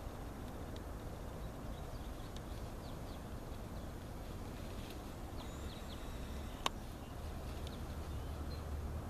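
Outdoor ambience: a steady low rumble of background noise with faint, scattered high chirps of small birds, and a single sharp click about seven seconds in.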